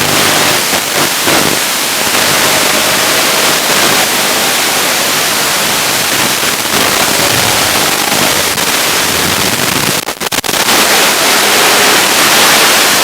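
Steady loud static hiss from an analog FPV goggle receiver's DVR audio, with a faint motor tone fading out in the first second or two and a brief dropout about ten seconds in.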